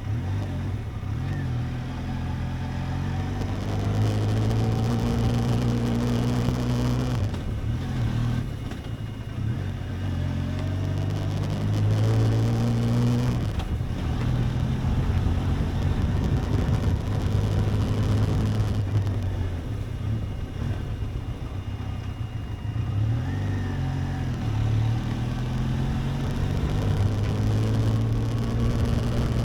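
Benelli TRK 502X motorcycle's parallel-twin engine running while riding, its pitch rising and dropping several times.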